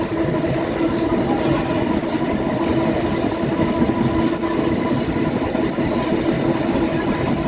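Subway train running at a steady speed: a continuous rumble of wheels on rails with a steady hum of held tones over it.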